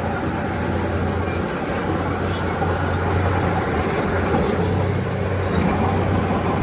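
Diesel engine of heavy earthmoving machinery running steadily, with a strong low drone and a dense mechanical rumble. Faint short high-pitched chirps come now and then.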